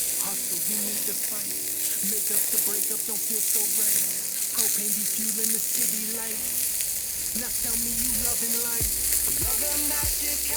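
Chicken frying on a thick iron griddle (Yokozawa teppan): a steady sizzling hiss. The griddle has been lowered off a fire that was too strong, so the meat cooks on the plate's stored heat.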